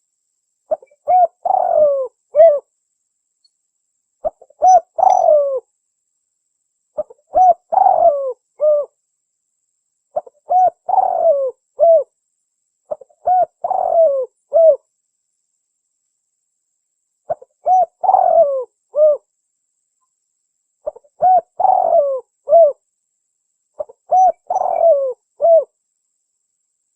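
Spotted dove (tekukur) cooing: the same short phrase of several low coos is repeated eight times, roughly every three seconds, with a slightly longer pause near the middle. It is a lure call, used to attract wild doves.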